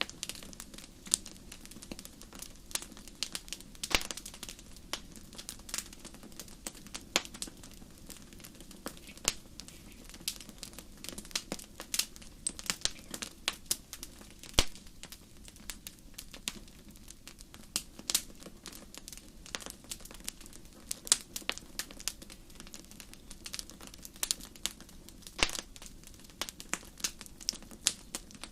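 Wood fire crackling: frequent irregular sharp pops and snaps over a steady low rush of the flames.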